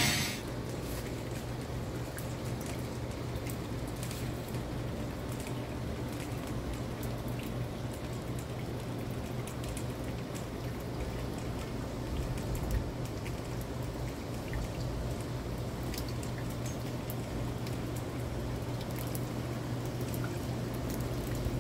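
Heavy tropical rain falling and running off, with scattered drips and splashes and water pouring, over a steady low hum.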